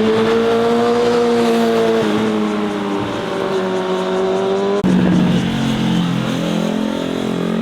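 Motorcycle engine running at high revs under hard acceleration, its pitch held high and steady, with a sharp break about five seconds in, then climbing again as it pulls away.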